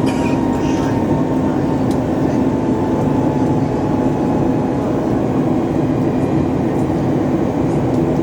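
Cabin noise inside a Boeing 737 MAX 8 airliner: the steady rumble of its CFM LEAP-1B jet engines and airflow, with a faint steady whine above it.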